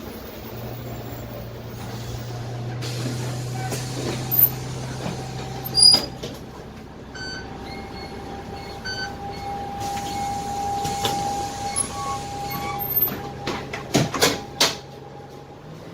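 Dennis Trident double-decker bus under way, heard from the lower deck: the Cummins ISMe diesel engine hums steadily under a steady whine, with sharp rattles and knocks from the body and fittings, loudest about six seconds in and in a cluster near the end.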